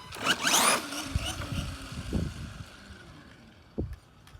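Arrma Gorgon RC monster truck on a 3S battery accelerating hard, its upgraded electric motor giving a whine that rises sharply in pitch in the first second. Lower thuds and tyre noise follow as the truck runs on, with a sharp knock near the end.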